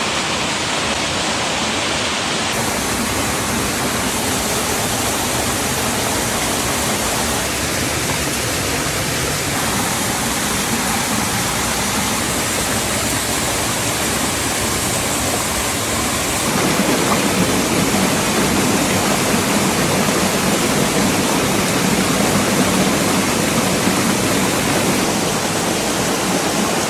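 Steady rush of flowing water, an even hiss with no pauses, growing a little louder about two-thirds of the way through.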